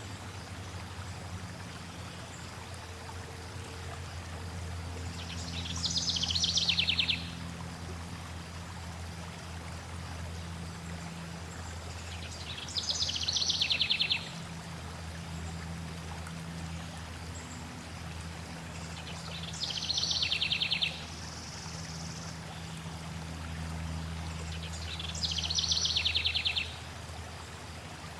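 Flowing water with a steady low rush, while a songbird sings four times at intervals of six to seven seconds. Each song is a high phrase of about a second and a half that falls in pitch and ends in a fast trill.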